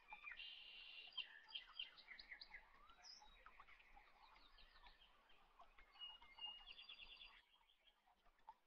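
Faint birdsong: small birds chirping in short notes and quick trills, dying away about seven and a half seconds in.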